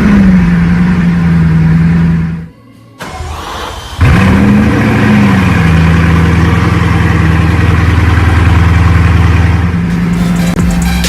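A supercar engine settles into a steady idle, then cuts out about two and a half seconds in. About four seconds in it starts again with a quick rev flare that falls back into a steady idle.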